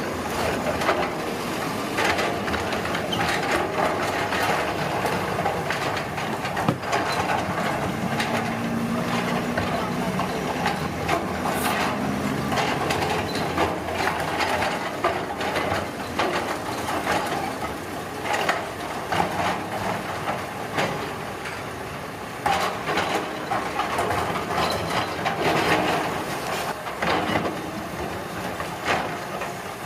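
Heavy road-construction machinery at work: a diesel engine running under continual clattering and scraping of rock and earth, with frequent short knocks.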